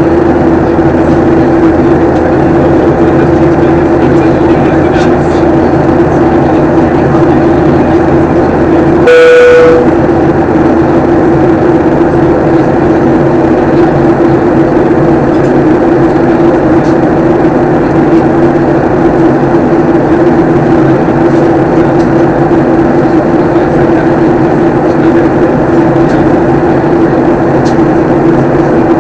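Steady drone of an airliner's cabin in flight: jet engine and airflow noise with a constant low hum. About nine seconds in, a single short tone sounds once.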